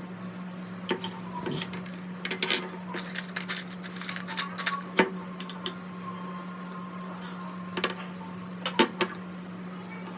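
Scattered light metallic clicks and taps of small carburettor parts being handled, with a tighter cluster of knocks about two and a half seconds in, over a steady low hum.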